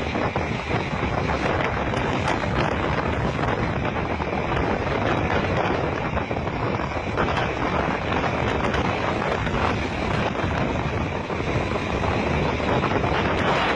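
Steady loud rushing of wind and rough sea on a ship's deck, the wind buffeting the microphone.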